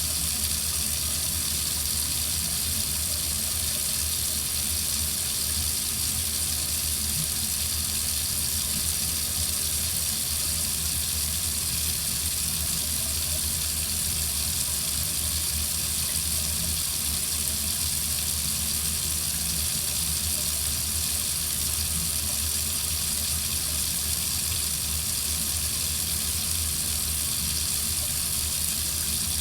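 Water running steadily from a faucet into a sink, an even rushing hiss that does not change.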